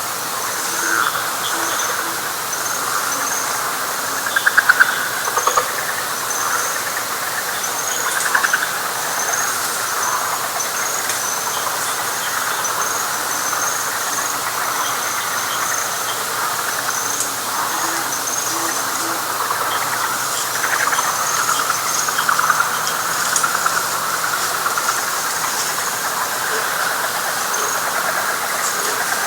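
Night chorus of frogs calling together: continuous high rapid chirping over pulsing trills. A few calls stand out louder about four and eight seconds in.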